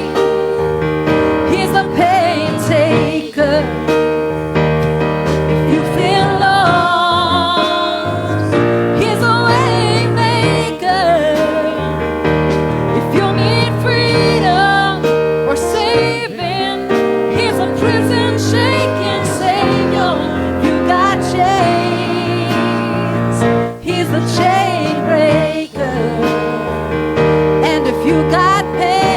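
Gospel worship music: a keyboard playing sustained chords under a singer's long, wavering held notes and runs.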